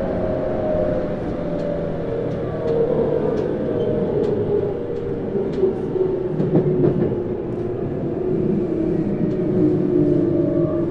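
Tokyu Series 9000 electric train running, heard from inside a motor car: the Hitachi GTO-VVVF inverter's tones sink slowly in pitch over steady wheel and rail rumble. Faint ticks are scattered throughout, and there is a louder rattle about two-thirds of the way in.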